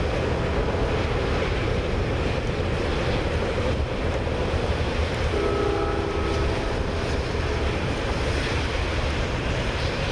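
Steady rushing wind and rain noise on the microphone over the low rumble of the last cars of a CN freight train passing a grade crossing. A brief steady tone sounds about halfway through.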